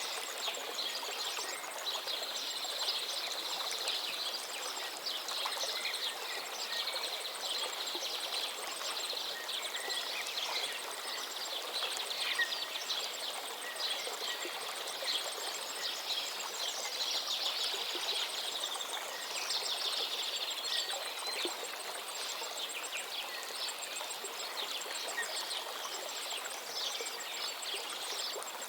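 Flowing stream or small waterfall making a steady rushing sound, with songbirds chirping and trilling over it, busiest in the first two-thirds and sparser toward the end.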